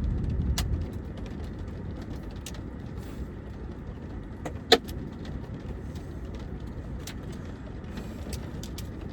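A car running at idle, heard from inside the cabin as a steady low rumble, with scattered light ticks of falling ice hitting the car and one sharper tick about halfway through.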